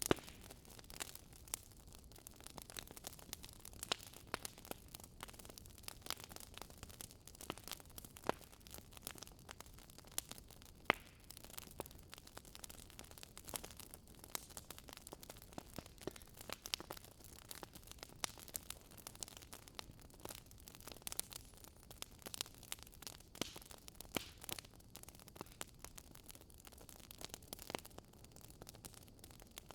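Firewood burning in a fireplace, crackling with irregular sharp pops over a faint steady hiss.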